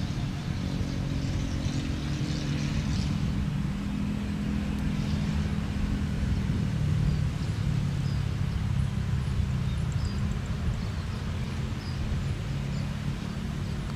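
Steady low engine rumble with several held low tones throughout, and a few faint short high chirps over it.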